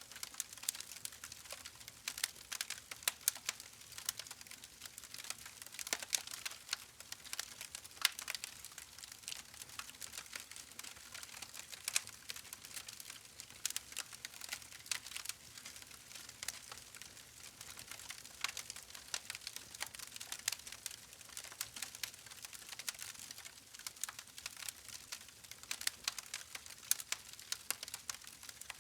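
Campfire burning: a steady hiss of flames with frequent sharp crackles and pops of burning wood, a few louder snaps standing out.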